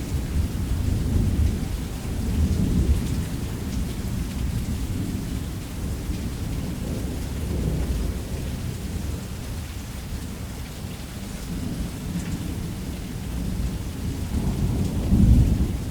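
Thunderstorm: low, rolling thunder rumbling over steady rain. The rumble swells in the first few seconds and builds to a louder peak near the end.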